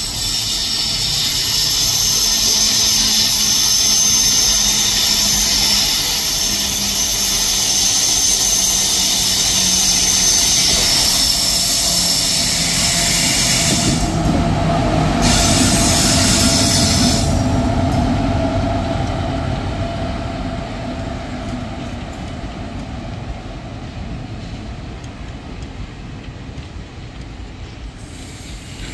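Passenger express hauled by a WAP7 electric locomotive running through a station. Its steel wheels squeal on the curve with a high, ringing whine. Partway through, a deeper rumble takes over as the locomotive and coaches roll close past, and it slowly fades as the train moves away.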